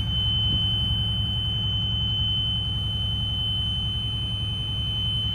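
Front-engine Blue Bird school bus engine idling with a steady low rumble, with a constant high-pitched tone held over it.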